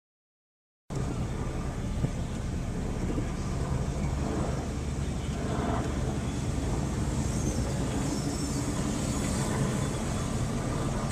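Steady low rumble of car engines running amid outdoor background noise, cutting in abruptly about a second in after dead silence.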